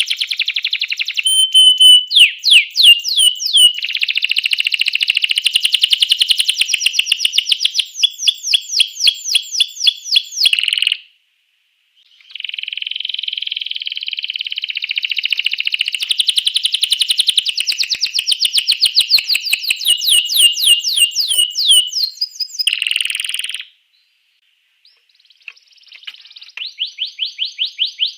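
Domestic canary singing: long runs of very fast trills and rolling repeated notes, high-pitched, with two short pauses, about eleven seconds in and again near the end.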